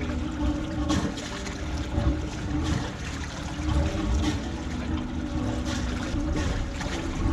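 Water splashing and trickling with a steady low rumble underneath, in short surges about once a second or two.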